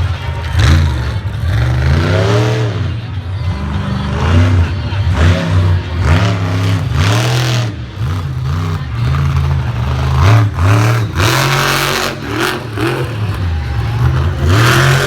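Monster truck engine revving hard again and again, its pitch climbing and falling with each throttle stab.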